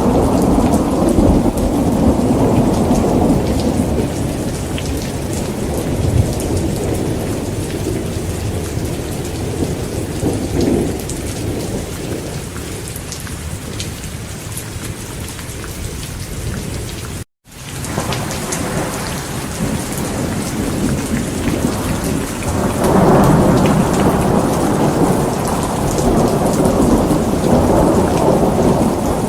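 Heavy rain falling steadily with rolling thunder. The rumble fades over the first half, the sound cuts out for an instant a little past halfway, and the thunder swells again near the end.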